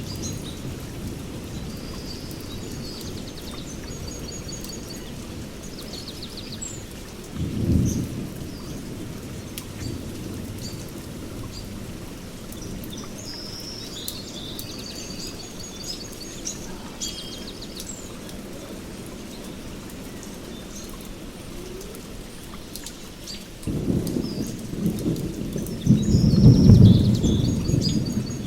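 Thunderstorm in a rainforest: steady rain under a continuous low rumble of thunder, with a short, louder clap about a quarter of the way in and a longer, louder roll building near the end. Birds chirp and trill at intervals over the rain.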